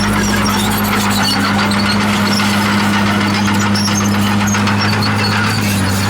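Diesel engine of heavy earthmoving equipment running steadily, with a constant low hum.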